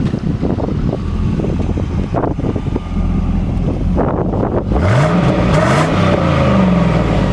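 The Trans Am's 5.7-litre LS1 V8 runs with a low rumble, then about five seconds in its pitch climbs as the car accelerates, rising more than once in quick succession.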